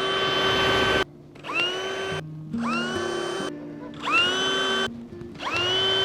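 Power drill pre-drilling holes through a stack of clear corrugated PVC roof panels: the motor spins up with a rising whine, runs about a second and stops, about five times in a row.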